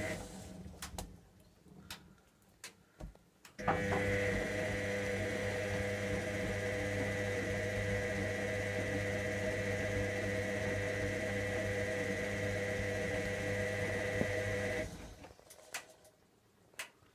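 Electra AWF683 washing machine's drum motor tumbling the wash. The motor stops for about three seconds at the start, with a few clicks, then turns steadily with a hum for about eleven seconds and stops again near the end.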